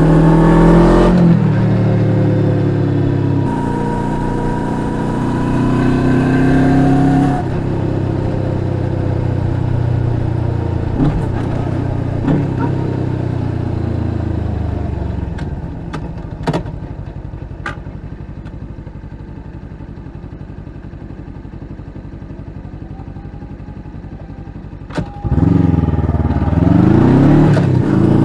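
Suzuki GSX250R parallel-twin engine through an aftermarket slip-on muffler, riding: pulling through the revs with drops in pitch at gear changes, easing off to a quieter low steady running midway, then revving up again in rising sweeps near the end.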